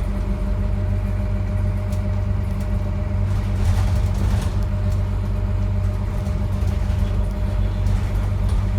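Scania N230UD double-decker bus running, its diesel engine giving a steady low drone with a faint constant whine above it.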